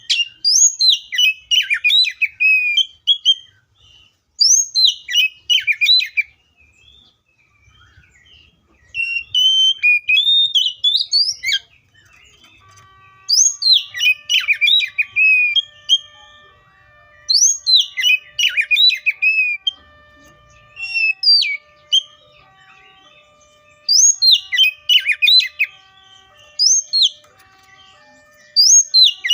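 Oriental magpie-robin singing in repeated phrases of about two seconds each: a high note that drops into a quick tumble of falling whistled notes, with short pauses between phrases.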